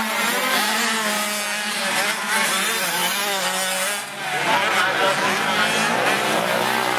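Two-stroke 85cc motocross bikes racing on the track, their engine notes rising and falling as they rev through the gears. About four seconds in the sound dips briefly, then another bike's note climbs.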